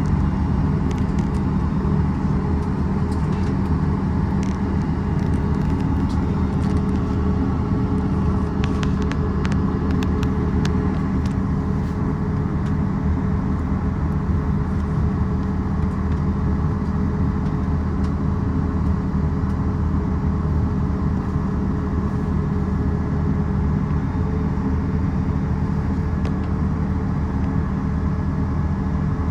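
Steady low mechanical rumble with a faint steady hum, as heard from inside a moving vehicle; a few light clicks come about nine to eleven seconds in.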